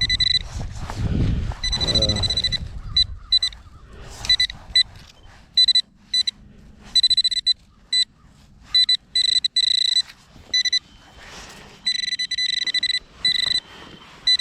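Metal-detecting pinpointer beeping at one fixed high pitch, in quick pulses and longer held tones as it is worked over a target in the dug hole. Low rustling and handling noise in the first few seconds.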